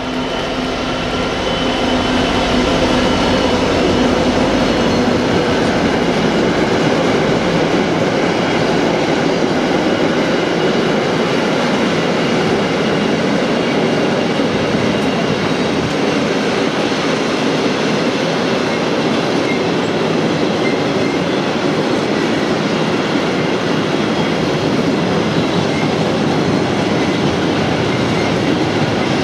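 Class 66 diesel locomotive's two-stroke V12 engine passing close, its drone fading within the first few seconds, then a long train of loaded double-deck car-carrier wagons rolling steadily past with continuous wheel-on-rail noise.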